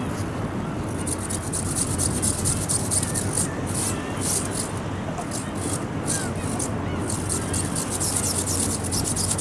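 Strong wind buffeting the microphone: a steady rushing rumble with irregular crackling in the treble as gusts hit.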